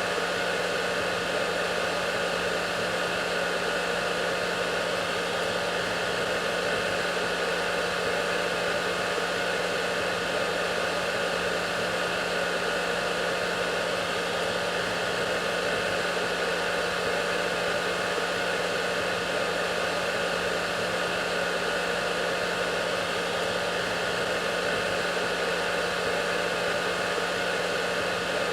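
Hair dryer running continuously: a steady rush of air over a constant motor hum, with no change in pitch or level.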